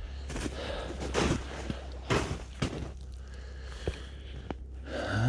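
A person walking in snow: several separate footsteps roughly half a second to a second apart, with a couple of lighter clicks near the end.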